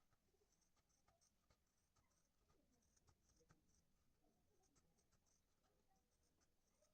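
Near silence, with faint scattered clicks and light scratching throughout.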